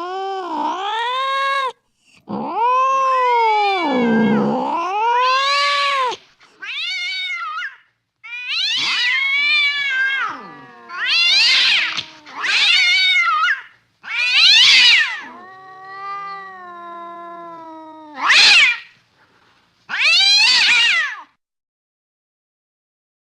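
Domestic cat yowling and meowing in a run of about ten drawn-out calls that waver up and down in pitch, some long and some short, stopping about two seconds before the end.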